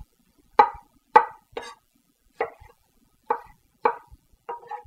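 Chunks of Roma tomato being put into a salad bowl: about seven short knocks at irregular intervals, each with a brief ring from the bowl.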